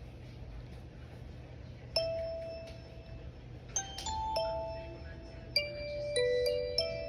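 A series of bell-like chime notes, struck singly at uneven intervals, each ringing and slowly fading; the first comes about two seconds in, over a low steady hum.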